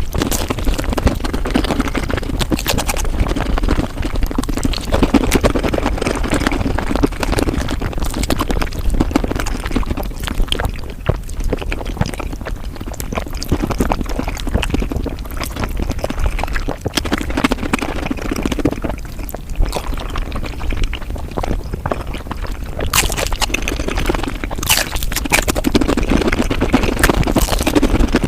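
Mukbang eating sounds sped up five times: a fast, continuous run of chewing, smacking and slurping, wet and crowded with tiny clicks.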